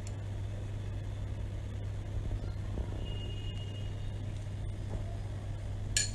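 Steady low hum with a faint hiss over it, and a single short sharp click near the end.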